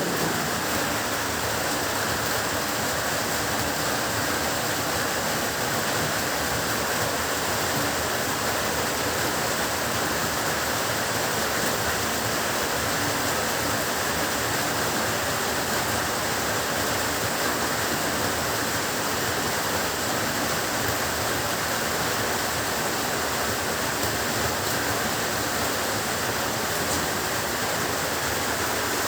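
Heavy rain falling steadily, an even downpour hiss with no breaks or thunder.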